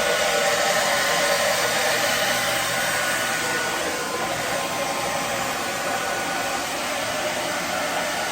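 Handheld hair dryer running steadily on its low, cool setting: a continuous rushing noise with a faint whine.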